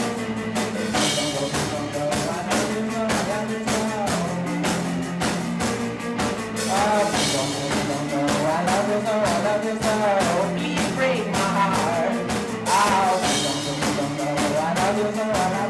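Live rock band playing a passage between sung lines: drums keep a steady beat under sustained bass notes and a wavering melodic lead line.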